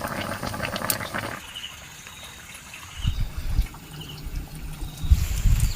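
Water splashing and trickling for about the first second and a half, then faint cricket chirping with several dull low thuds.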